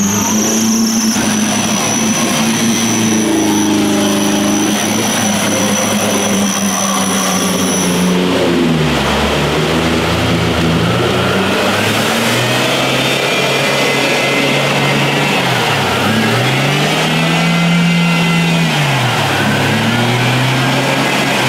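Off-road 4x4's engine revving up and down, its pitch dropping and climbing again several times. A thin high whine runs over it for the first eight seconds or so.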